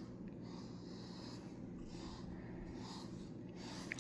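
Brush strokes through a long-haired cat's fur: a run of soft, scratchy strokes repeating about every half second.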